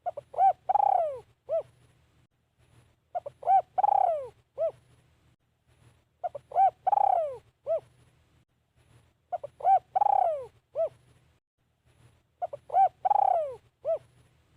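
Spotted dove cooing, giving the same phrase five times, about once every three seconds: a few short coos, one longer coo that falls in pitch, then a short closing coo.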